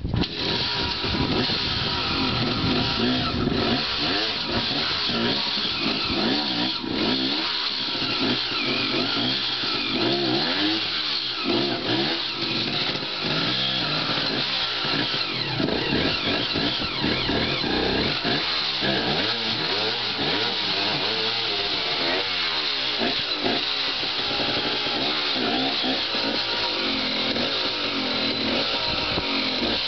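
Dirt bike engine revving up and down over and over, the pitch rising and falling every second or two without settling.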